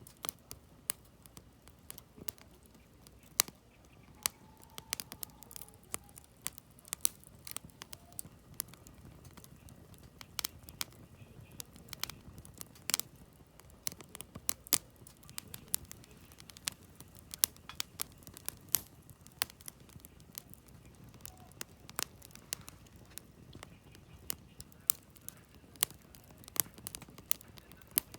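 Firewood burning in a campfire: irregular sharp crackles and pops, sometimes several a second, over a faint low rush of the fire.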